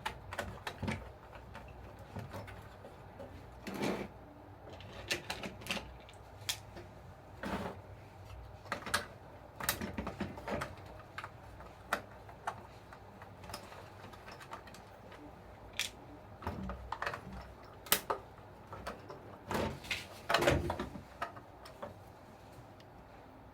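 Irregular sharp clicks and light knocks, scattered through with no steady rhythm, of small plastic parts and tools being handled while a Huina 1569 RC bulldozer is taken apart for repair.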